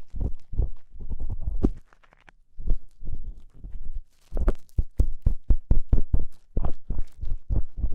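Ear-cleaning tool scratching and rubbing at the ear of an ASMR microphone, in quick, irregular strokes with deep, close thuds. There is a short pause about two seconds in, and the strokes come thicker from about halfway.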